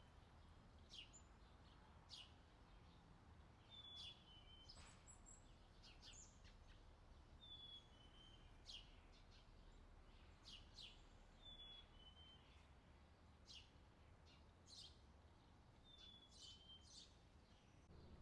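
Faint outdoor summer ambience recording: a bird repeats a short, high two-note call roughly every four seconds, among scattered brief high ticks and chirps over a low, steady background hum.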